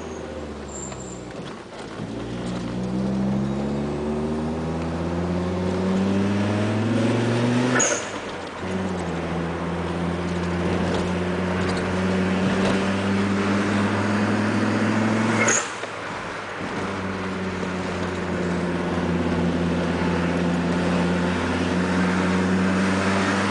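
Fiat Marea Weekend Turbo's turbocharged engine pulling under acceleration, heard from inside the cabin, its note rising. At each lift-off, about 8 seconds in and again near 16 seconds, the HKS SSQV blow-off valve vents with a short sharp hiss and the engine note drops. The engine then climbs again.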